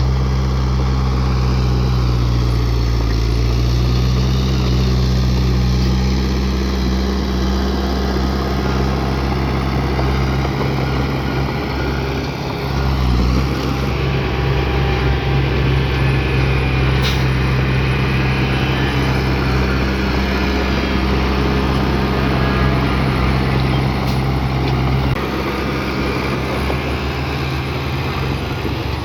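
Bulldozer's diesel engine running steadily under load, with a wavering high squeal and mechanical clatter from the machine over it. The engine note drops a little about 25 seconds in.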